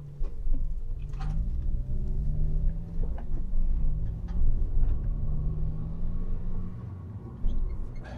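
A small car's engine heard from inside as it drives along, a steady low rumble whose pitch rises and falls with the throttle and gear changes.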